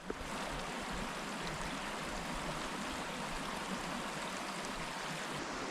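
River water flowing steadily: a constant rushing that fades in at the very start.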